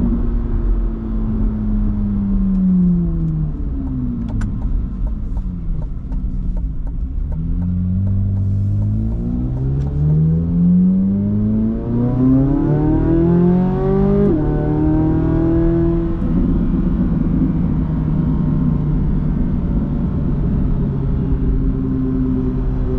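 Corvette C8 Z06's 5.5-litre naturally aspirated flat-plane-crank V8 on the road. The revs fall off over the first few seconds, then climb hard under acceleration. A little past halfway the pitch drops suddenly, as at an upshift, rises briefly, and then settles to a steady cruise.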